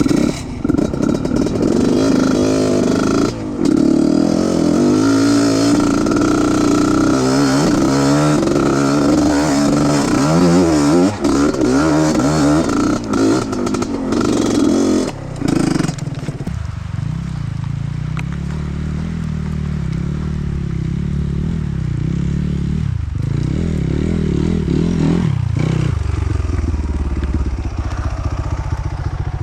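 Off-road trail motorcycle engine revving up and down unevenly for about the first half, then running at lower, steadier revs.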